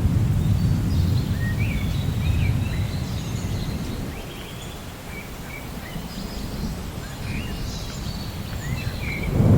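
Rainforest birds chirping and calling over a low rumble of distant thunder, which fades away about halfway through and rolls in again near the end.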